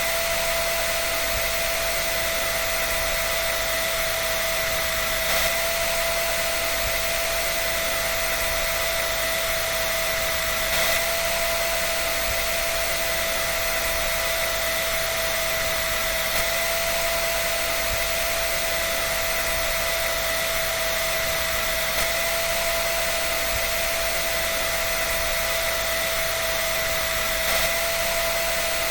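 Dryer running steadily: an even rush of blown air with a constant whine, and a faint bump about every five and a half seconds.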